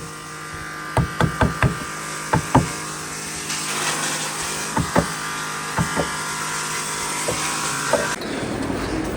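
Hammer blows on wood in quick groups of two to four strikes, with pauses between groups, over a steady background hum.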